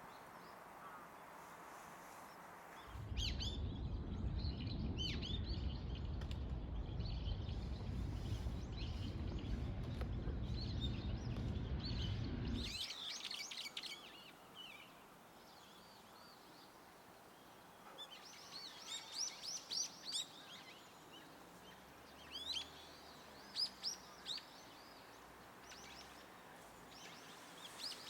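Bird chirps over a steady low rumble that stops abruptly about thirteen seconds in. Later come clusters of short, sharp, high calls from a brown-eared bulbul.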